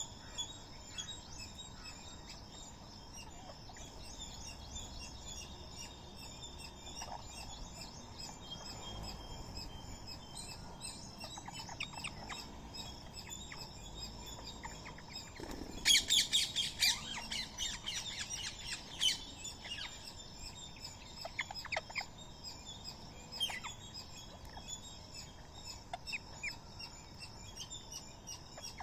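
A flock of birds, Indian ringneck parakeets among them, chirping continuously. About sixteen seconds in comes a loud burst of harsh screeching calls lasting a second or two, followed by scattered sharp calls.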